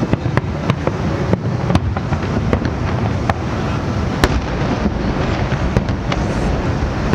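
Aerial firework shells bursting: a rapid, irregular string of sharp bangs over a steady low rumble of overlapping explosions. The loudest bang comes a little past the middle.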